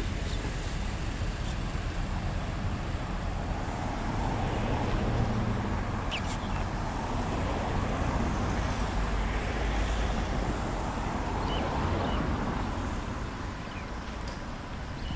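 Steady city traffic noise, with one short sharp click about six seconds in.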